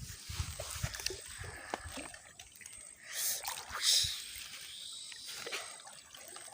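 Water splashing and sloshing in a flooded stream, with two louder swells of splashing about three and four seconds in.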